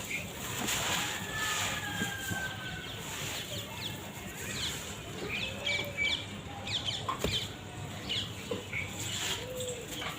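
Soft sand-cement blocks crumbling, a gritty crunching texture, with birds chirping in the background, many short chirps clustered in the middle.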